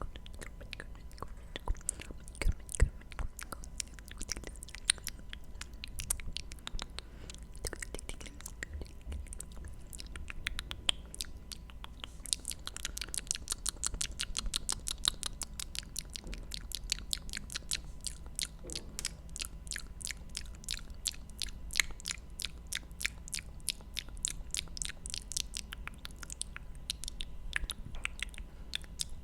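ASMR mouth sounds close to the microphone: rapid wet clicks and smacks of the lips and tongue, at times in quick trains of several a second.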